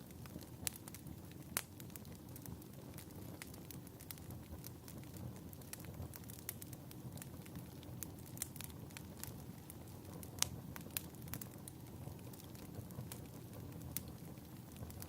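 Fireplace crackling: a steady low rush of flame with irregular sharp crackles and pops, a few of them louder.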